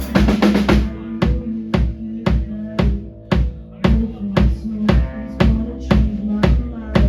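Live band music led by a drum kit. About a second in the cymbal wash drops out, leaving a steady beat of kick and snare hits about twice a second under held low notes.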